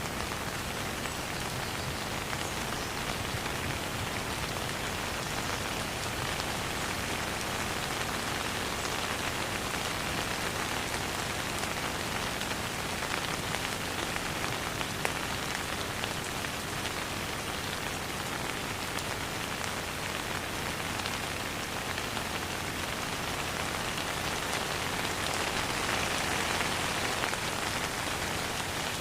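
Steady rain falling on a surface, an even hiss with fine scattered drop patter that swells slightly near the end; no thunder.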